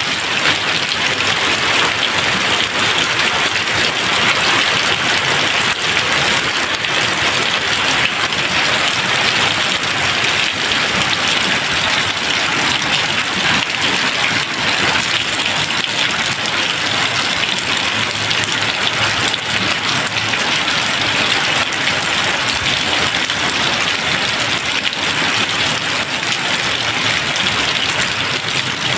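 Steady, dense rain falling, an even hiss of many raindrops with no thunder.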